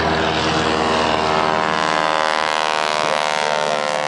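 An aircraft engine droning steadily with a pitched hum.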